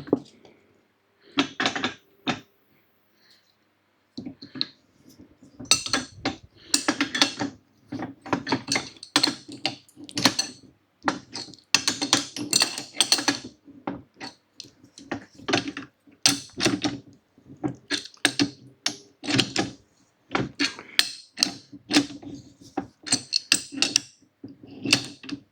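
Hand tools working a bolt on a steel scissor-lift frame: bursts of ratchet clicking and metal clinks, with a lull about three seconds in, then near-continuous clicking and clinking to the end.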